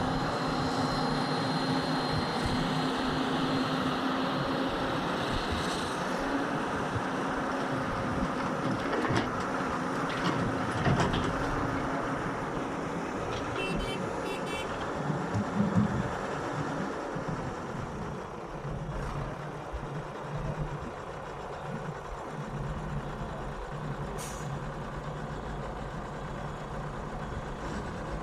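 Diesel engines of a Hyundai excavator and a dump truck running steadily while the truck is loaded. A few knocks come about a third of the way in, and a short series of high beeps follows about halfway through.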